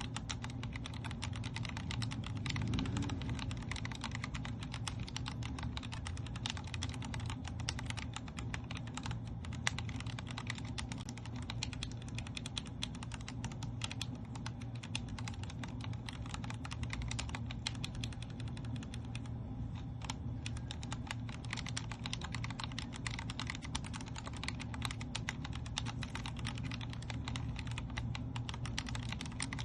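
Continuous typing on a Vortex Core 40% mechanical keyboard with Cherry MX Speed Silver switches: a dense, fast stream of key clacks, with a brief pause about twenty seconds in.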